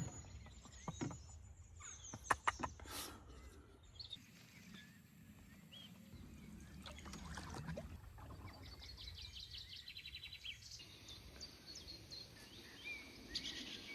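Canoe paddling on a river: a few sharp knocks of the paddle against the canoe early on, then quiet water and faint bird chirps.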